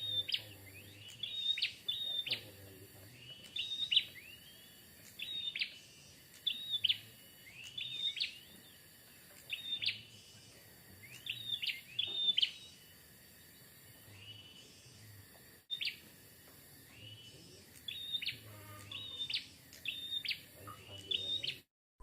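A mountain prinia (prenjak gunung) singing: short, sharp, high chirping phrases repeated about once a second, with a pause of a couple of seconds midway. The recording cuts off abruptly just before the end.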